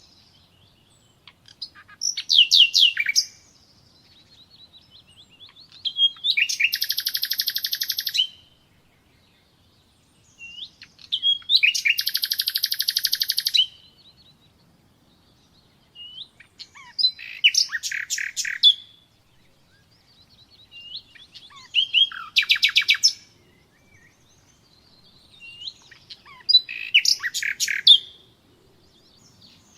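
Nightingale singing in separate phrases with pauses of a couple of seconds between them, six phrases in all. Each phrase is built of fast repeated high notes, and two of them, about 6 and 11 seconds in, are long rapid trills lasting around two seconds.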